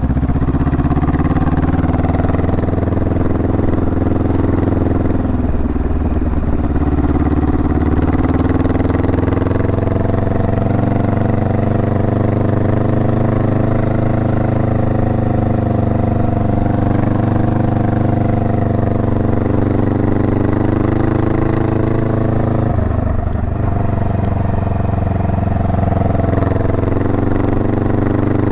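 Honda Rebel 500's parallel-twin engine running steadily as the motorcycle rides along. Its note dips briefly and recovers twice, about a fifth of the way in and again near the end.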